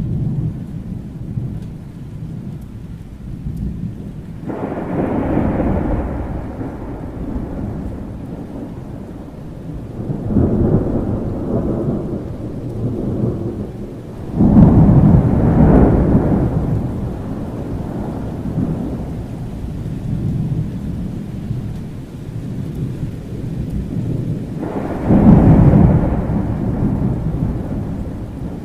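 Thunderstorm: rolls of thunder over steady rain, four rumbles that swell and fade, the loudest one starting abruptly about halfway through and another near the end.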